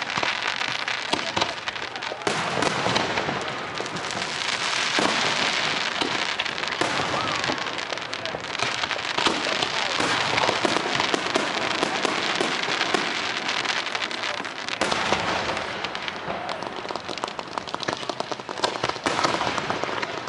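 Fireworks display in full swing: dense, continuous crackling and popping, with a few louder bangs standing out.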